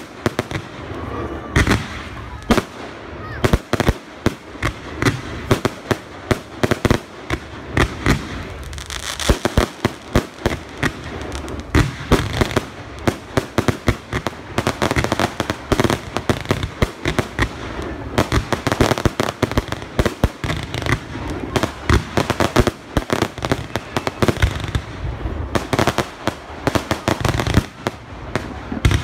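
A fireworks display: a rapid, irregular run of shell bursts and bangs, several a second, over continuous crackling, with the crowd's voices faintly beneath.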